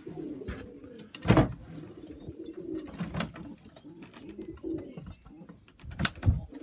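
Pigeons cooing steadily in a small loft, with several sharp knocks of handling or wood, the loudest about a second in and another near the end, and brief high squeaks about three seconds in.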